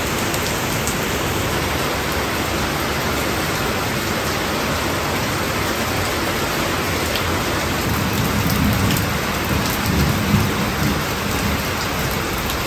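Steady rain falling on garden leaves and wet ground, a dense even hiss with scattered drips. A low rumble swells in the second half.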